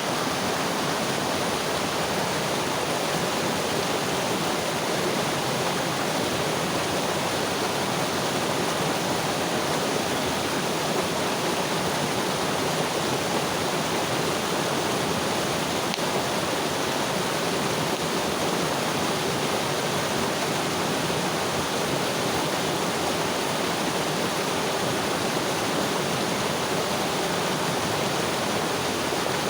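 Mountain river water rushing and splashing over rocks in a steady, even flow.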